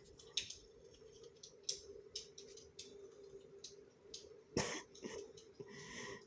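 A cat eating wet tuna food, making scattered small, sharp mouth clicks and licks. About four and a half seconds in comes one louder cough-like burst. A faint steady hum runs underneath.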